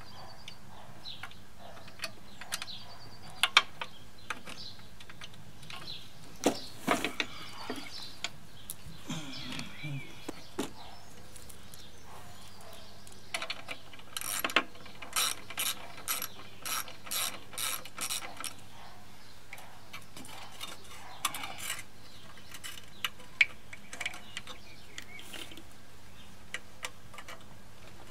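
Hand tools working on a lawnmower's engine and deck: scattered metallic clicks and knocks, with a regular run of ratchet-like clicks, about two or three a second, around the middle.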